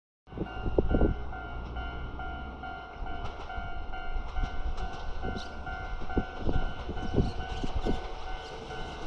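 Train approaching through the station: a low rumble with scattered knocks from the wheels and rails. Over it a repeating electronic warning chime sounds about twice a second throughout.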